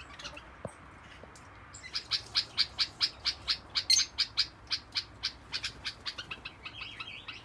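Yellow-collared lovebirds (Agapornis personatus) chirping. After about two seconds a rapid run of short, sharp, high-pitched chirps starts, about four or five a second, and keeps going.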